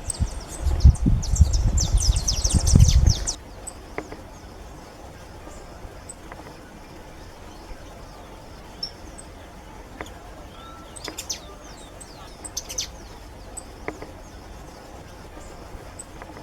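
Small finches singing: a fast run of high twittering notes over a loud low rumble for about the first three seconds, then only a few scattered short chirps.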